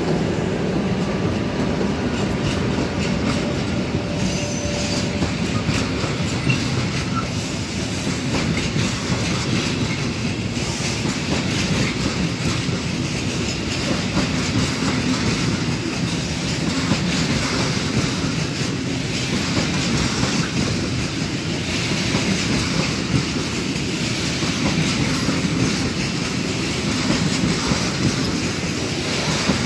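Freight train of covered wagons rolling past close by, wheels clattering steadily over the rails with some wheel squeal. The drone of the passing locomotives fades out about a second in.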